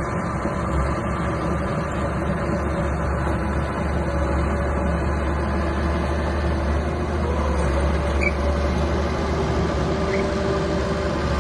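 Mini bulldozer's diesel engine running steadily with a constant low drone.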